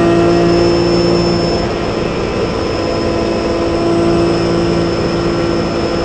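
Onboard sound of a Porsche 997 Cup car's flat-six engine running at a steady pitch over a constant rushing hiss, easing slightly in level after about two seconds.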